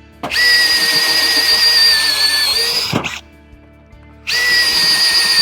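Electric drill running in two bursts, a steady high whine that sags slightly and picks up again near the end of the first burst, drilling holes in sheet metal for 5/16 plug welds.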